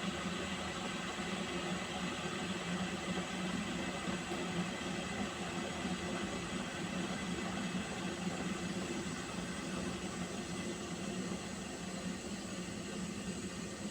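Pot of water heating on a stove toward the boil: a steady hiss with a low rumble underneath.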